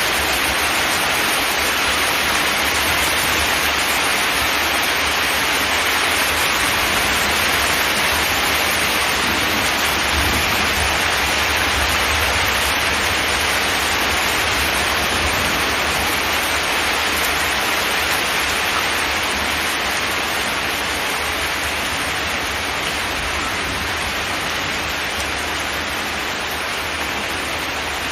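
Steady rain falling on a zinc metal roof: a dense, even hiss of drops with a low rumble underneath.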